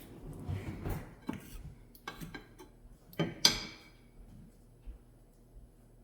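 Kitchen clatter: dishes and utensils knocking and clinking several times, the loudest a ringing clink about three and a half seconds in.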